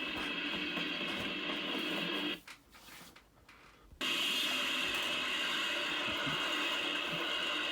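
Steady chorus of summer insects chirring, with a constant high band. It drops out abruptly for about a second and a half, then comes back just as suddenly.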